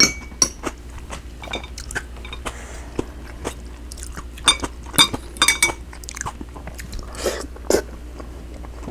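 A person chewing food close to the microphone, with irregular wet mouth clicks and smacks that come thicker around the middle. The food is pan-fried tofu and egg-battered cod.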